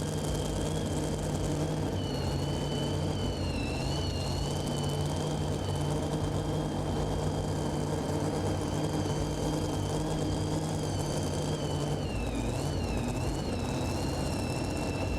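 Super modified two-wheel-drive pulling truck's engine running steadily at a low idle, with a high whine over it that dips briefly twice, once a few seconds in and again near the end.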